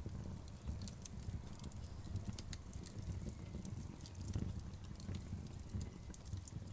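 Wood fire burning: a steady low rumble of the flames with scattered sharp crackles and pops from the logs.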